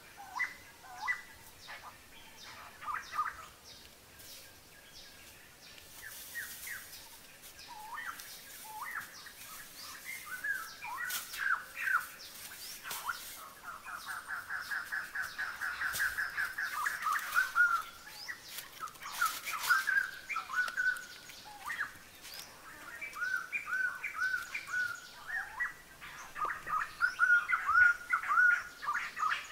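Wild birds chirping and calling over and over, with a rapid trill lasting a few seconds about halfway through, over scattered short clicks and rustles.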